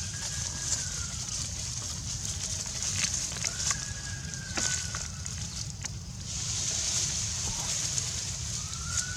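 Outdoor forest ambience: a steady high hiss, typical of insects, that swells for a few seconds about two thirds of the way in, over a low rumble and scattered sharp clicks. A drawn-out whistle-like call that rises and then falls sounds three times: at the start, about three and a half seconds in, and near the end.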